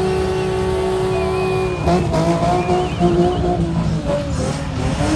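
Race car engines running at high revs with tires squealing; the engine note holds steady, then changes pitch about two seconds in.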